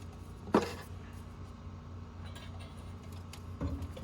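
Metal clinking from tools and parts during removal of a car's clutch assembly: one sharp clink about half a second in and a few faint clinks near the end, over a steady low hum.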